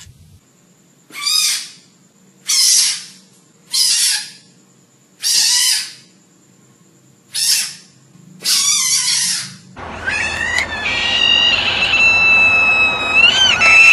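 Frogs giving short distress screams: six separate cries, each under a second, with pauses between them. From about ten seconds in comes a longer, louder held scream whose pitch wavers and bends upward near the end.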